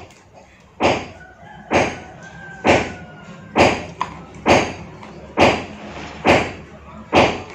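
A heavy knife or cleaver chopping meat on a cutting board: eight sharp, even strikes, about one a second, some with a faint ring from the board.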